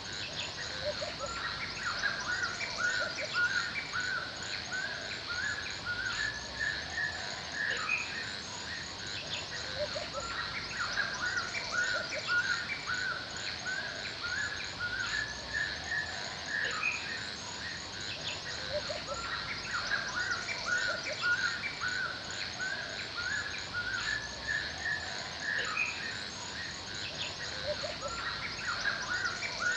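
Forest birds chirping and singing, many short calls repeating throughout, over a steady high-pitched hiss.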